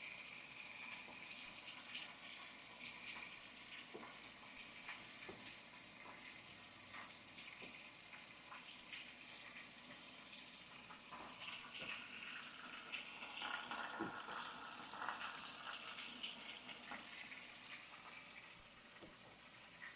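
Fish frying in hot oil: a steady sizzle with scattered crackles, louder for a few seconds a little past the middle.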